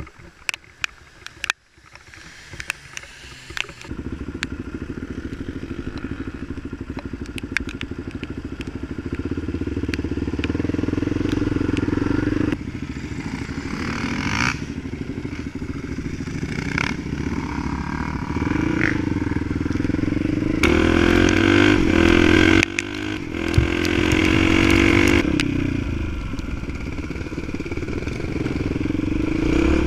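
Dirt bike engine running under way, revs rising and falling and dropping away sharply a few times. The first few seconds are quieter, with a few sharp clicks.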